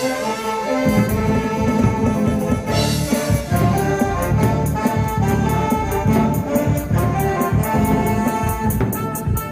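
Live ensemble music from an amateur band, with brass instruments such as trumpets and trombones to the fore, playing sustained chords. About a third of the way in, a steady high ticking beat joins.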